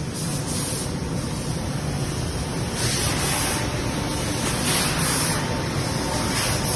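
6 kW CNC fiber laser cutting machine at work: a steady low machine rumble with a spraying hiss that comes in spurts from about three seconds in.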